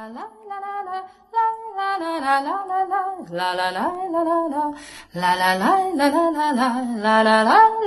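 A woman singing a slow melody, holding long notes that step up and down, with two brief pauses for breath.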